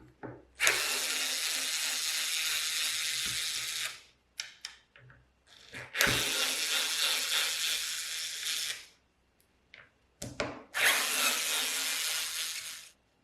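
A power tool run in three bursts of about three seconds each, each starting and stopping sharply, with short clicks and knocks between the bursts.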